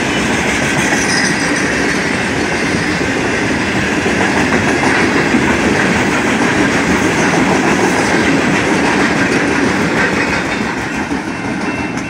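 Ballast hopper cars of a passing ballast train rolling by on the rails close at hand: a loud, steady noise of steel wheels on track that eases off near the end.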